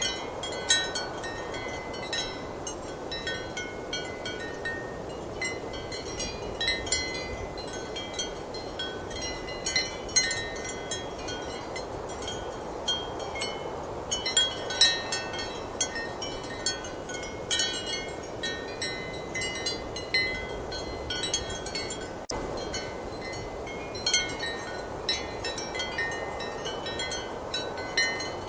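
Ceramic wind chimes clinking irregularly and ringing with high, short tones, over a steady rush of strong wind.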